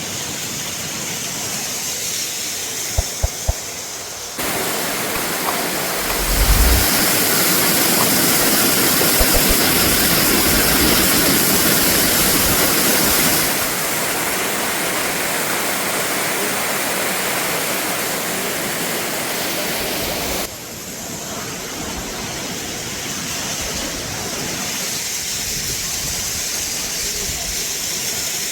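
Waterfall rushing, a steady roar of falling water that steps up in loudness about four seconds in and falls back about twenty seconds in. A few brief low bumps come through early.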